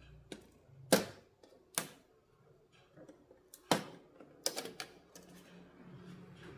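A handful of sharp clicks and knocks at irregular intervals, the loudest about a second in and again near the middle, like tools and plastic or metal TV parts being handled during disassembly.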